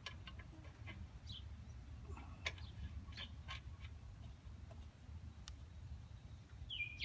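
Faint, short bird chirps and scattered light clicks over a low, steady rumble.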